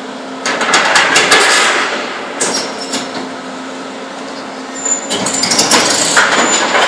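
Hydraulic excavator demolishing a steel building: a steady engine hum, with two loud bouts of clanking and crashing metal, about half a second in and again around five seconds in, and a brief high metallic squeal.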